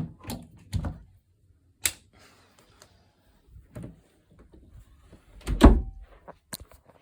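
Scattered knocks, clicks and clunks from a Numatic Henry vacuum cleaner and its parts being handled and set up, with one heavy thump late on; the motor is not yet running.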